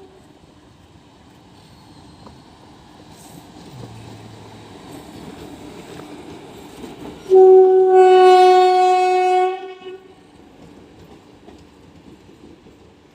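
WAP-4 electric locomotive's horn sounding one long blast of about two seconds, over the rumble of the train.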